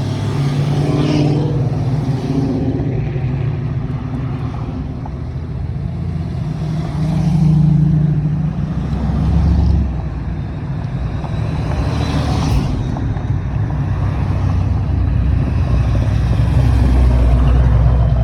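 Car engines running as cars drive in: a continuous low engine sound that swells and fades, louder about halfway through.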